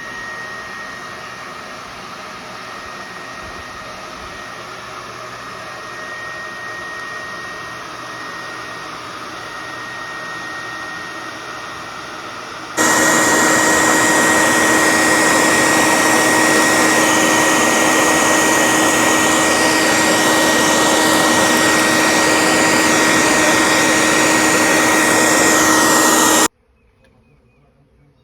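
Dense, steady buzzing of a mass of disturbed honeybees from an opened hive. It jumps suddenly louder about halfway through and cuts off abruptly near the end.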